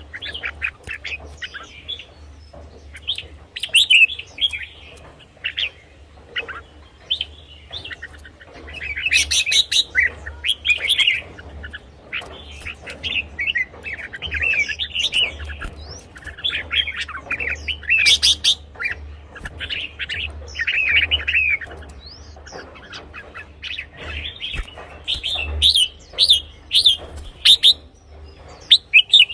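Red-whiskered bulbuls singing: bursts of quick, bubbling whistled phrases, one after another with short gaps, over a steady low hum.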